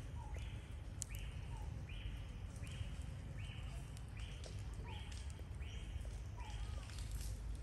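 A short buzzing animal call repeated evenly, about three every two seconds, over a steady low rumble.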